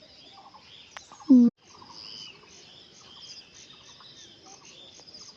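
Birds calling over a high, rhythmic chirping of about three chirps a second. About a second in there is one short, loud vocal sound, then a brief dropout.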